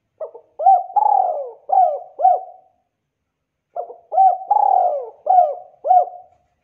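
Spotted dove cooing: two song phrases, each a quick run of about five coos lasting some two and a half seconds, the second beginning about three and a half seconds after the first.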